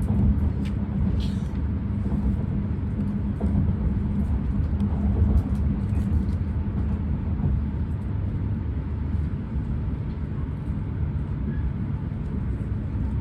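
Running noise inside a JR East E6 series Shinkansen car: a steady low rumble of the train travelling on the line, with a faint steady hum and a few light ticks.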